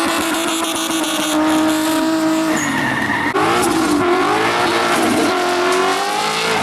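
Drift cars sliding at high revs, tyres screeching. The engine note holds steady for about two and a half seconds, then drops and climbs again several times as the throttle is worked.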